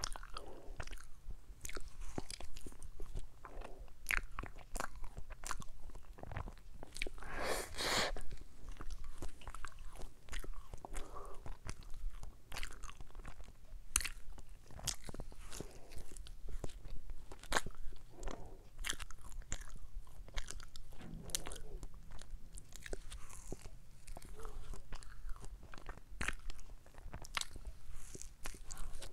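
Close-miked biting and chewing of a Bababam Sand ice cream sandwich: a steady run of sharp little crunches and clicks with soft wet mouth sounds between bites, busiest about eight seconds in.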